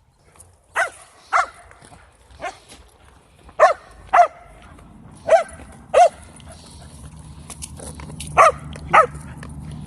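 A dog barking, about nine short sharp barks mostly in pairs, with a low steady rumble underneath in the second half.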